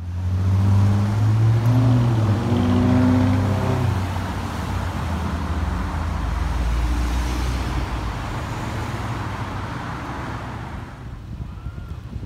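Lamborghini Urus twin-turbo V8 running with a deep, steady note and a couple of small rises in revs about two to three seconds in. After about four seconds it gives way to a rushing exhaust-and-road noise as the SUV drives off, fading near the end.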